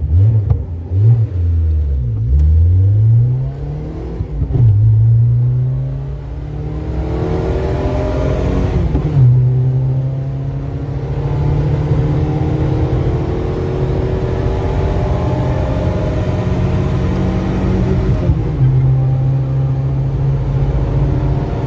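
A Dacia car's engine, heard from inside the cabin, accelerating hard through the gears. Its pitch climbs and drops at each gear change, several times in the first few seconds, then makes one longer climb and settles into a steady drone at speed, with one more shift near the end.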